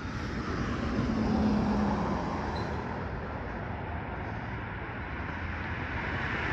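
Road traffic noise: a motor vehicle passing, its engine and tyre noise easing off mid-way and swelling again near the end.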